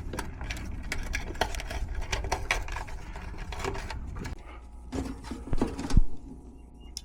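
Rapid, irregular clicking and clattering of tools and small metal parts being handled while wiring is worked on, then a few louder knocks, the loudest about six seconds in.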